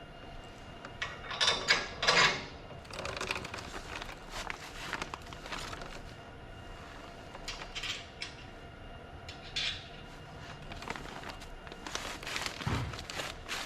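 Hand assembly of a pressure washer: scattered clicks, knocks and scrapes of metal parts and tools being handled. The two loudest scrapes come about one and a half and two seconds in, and a dull thud comes near the end.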